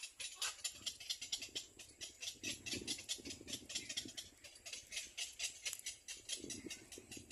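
Nestling birds begging with rapid, repeated high-pitched chirps, several a second, with brief lower rustling in the nest about three seconds in and again near the end.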